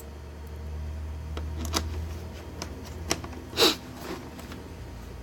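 Handling sounds of a laptop being reassembled: scattered light clicks and taps of plastic case parts and a screwdriver, with one brief louder scrape about three and a half seconds in, over a low rumble.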